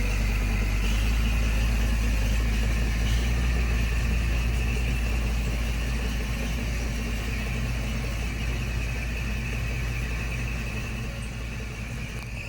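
Heavy diesel engine running steadily, gradually getting a little quieter toward the end.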